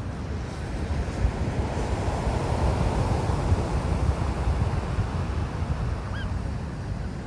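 Sea surf washing onto the shore, swelling for a couple of seconds, with wind buffeting the microphone as a steady low rumble.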